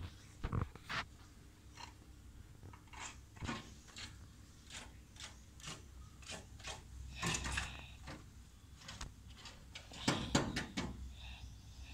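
Woodpecker pecking at a mirror: a string of sharp, irregular taps, roughly two a second, with quicker flurries about seven and ten seconds in.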